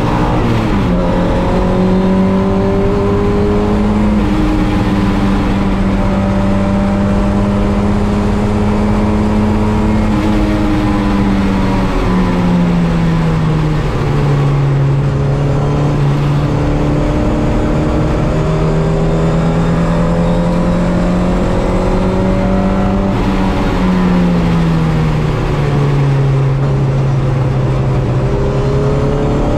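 MG Midget's four-cylinder engine running hard on a race track. Its note holds steady for long stretches, falls twice as the car slows, and climbs again each time.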